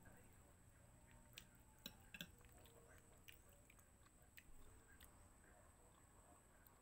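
Faint chewing of a mouthful of spaghetti, with a few soft clicks scattered through; overall close to silence.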